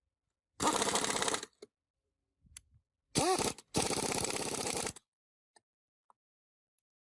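A power tool run in three short bursts, the middle one with its motor quickly speeding up and slowing down.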